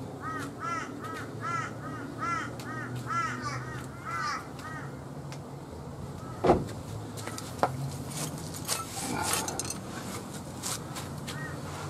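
A bird calling in a quick run of short, caw-like notes, two or three a second, for the first few seconds, with a few more calls near the end. About halfway through comes a single loud knock.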